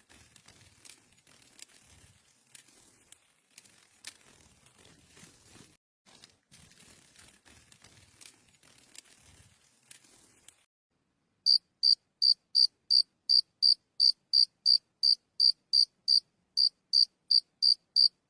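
Cricket chirping in an even, steady rhythm, about three high-pitched chirps a second. It starts a little past halfway through, after a long stretch of faint crackly hiss.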